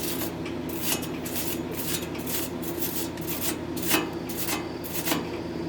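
Wire brush scrubbing back and forth on steel flat bar, cleaning slag around a flux-core weld, in irregular rasping strokes about two a second. A steady low hum runs underneath.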